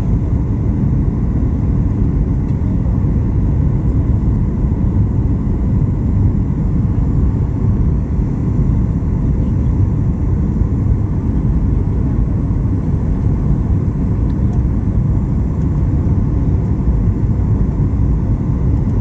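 Steady, unbroken low rumble of an airliner's engines, with a few faint steady whines higher up.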